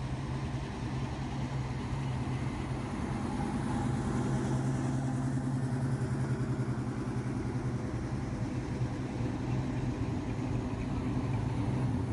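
A vehicle engine idling close by with a steady, rapid pulse, getting a little louder about four seconds in.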